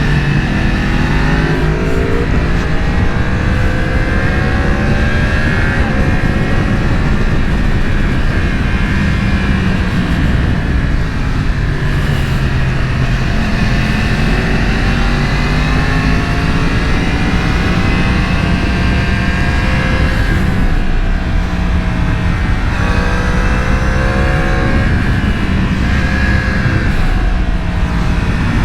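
Sport motorcycle engine under way, its revs rising and falling again and again as it accelerates and shifts through the gears, over a steady rushing road noise.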